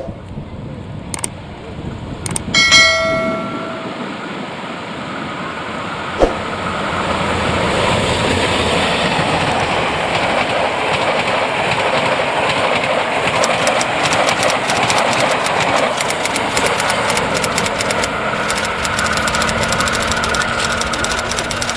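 A train sounds a short horn blast, then passes close by: a loud rumble of wheels on rail that builds over a few seconds and holds, with rapid clicking of wheels over rail joints in the second half.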